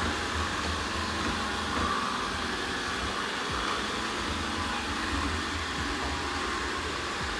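Ecovacs Deebot N79W robot vacuum running: a steady whir of its suction fan and brushes that swells and fades slightly.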